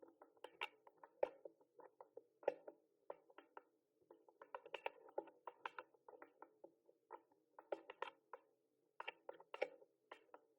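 Mechanical keyboard being typed on: quick, irregular key clicks, several a second, coming in runs with brief pauses between them.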